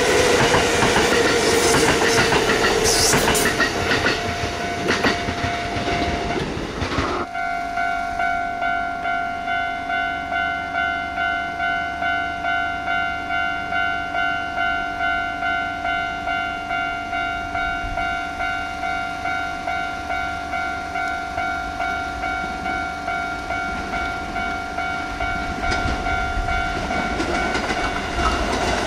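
A Kintetsu train passes over a level crossing with rumbling wheel clatter that cuts off about seven seconds in. The Japanese level-crossing warning bell keeps dinging in a steady, even rhythm throughout. Near the end the rumble of another approaching train builds again.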